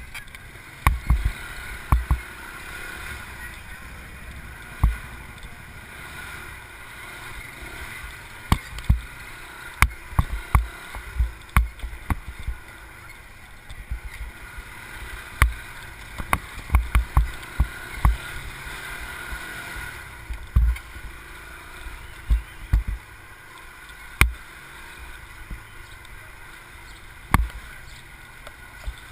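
Wind buffeting a moving camera's microphone: a steady rush of travel noise broken by many short, irregular low thumps.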